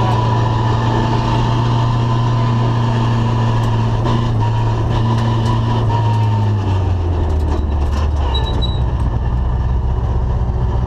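Ford Escort RS2000 rally car's engine heard inside the cabin, running at a steady pitch on a gravel road, then the revs drop about two-thirds of the way through and settle lower. A few sharp ticks sound over it.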